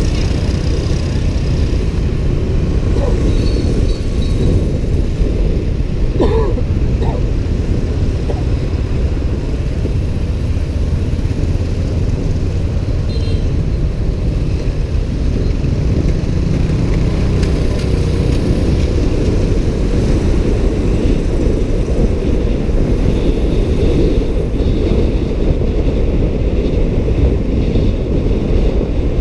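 Steady low rumble of wind on the microphone and road and traffic noise while riding a motorbike through city streets.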